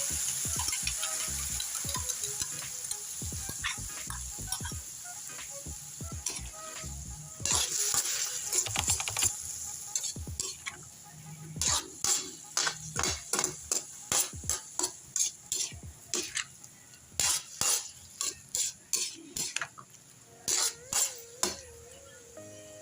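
Tofu sizzling in a hot pan while a utensil stirs it against the pan. The sizzle fades over the first half, then quick scraping strokes of the utensil on the pan follow, about two a second.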